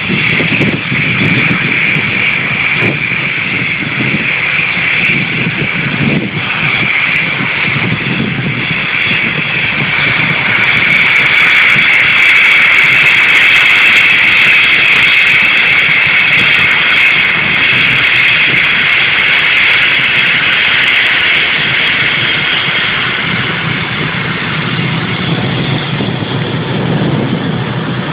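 Jet airliner's turbofan engines running: a steady high whine over a low rumble, growing louder toward the middle and easing off a little near the end.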